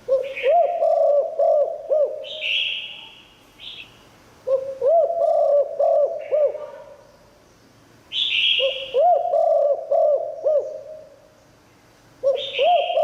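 Spotted dove cooing: a phrase of several low, arched coos repeated about every four seconds, three full phrases and the start of a fourth near the end.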